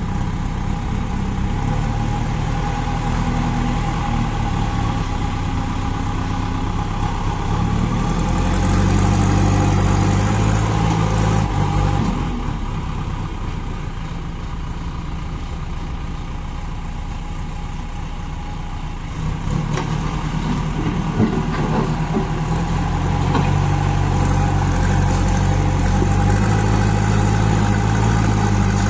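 Kirloskar diesel engine of a JCB 2DX backhoe loader running, speeding up about eight seconds in, easing off around twelve seconds, then picking up again from about twenty seconds on.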